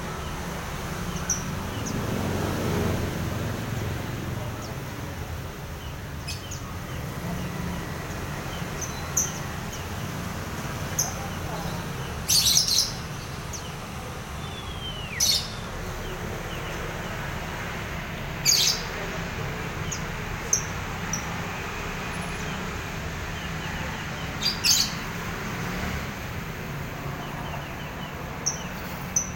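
Small bird chirping, with short, sharp high calls every few seconds over a steady low hum.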